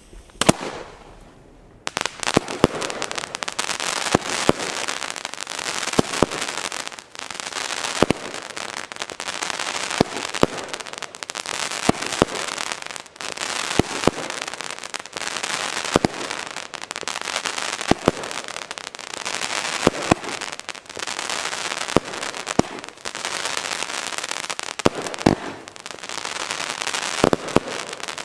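Funke Goldcracker Palmen fireworks firing in sequence: a sharp bang about every two seconds, each followed by dense gold crackling that runs almost without a break between the shots.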